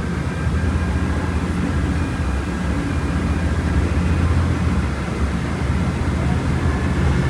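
Diesel city bus engine running steadily under way, a low even drone heard from inside the bus cabin.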